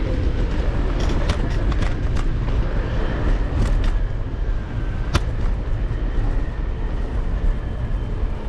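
Steady low rumble of wind and road noise while riding an electric scooter through city traffic, with a few sharp clicks or rattles, a cluster of them about a second in and one more just after five seconds.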